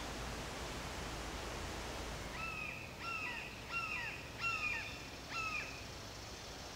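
A bird calling five times in quick succession, starting about two seconds in: each call a short pitched note that drops at the end. Underneath is a steady background hiss.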